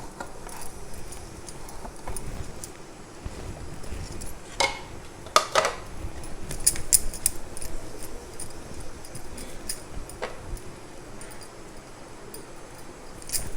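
Hands working chapati dough into small balls, with scattered light clinks and taps, the sharpest about four and a half and five and a half seconds in.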